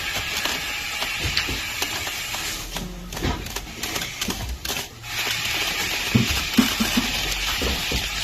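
Water churning and swishing in a FluidRower's tank as the handle is pulled and let back, a steady hiss that drops out briefly about five seconds in, with scattered light clicks from the handle and belt.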